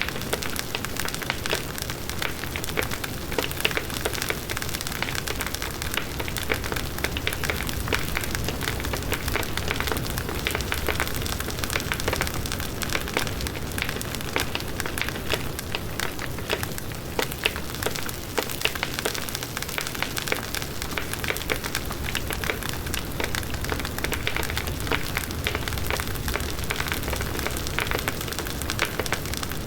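Wood bonfire burning: dense, continuous crackling and popping of the burning wood over a low rumble of the flames.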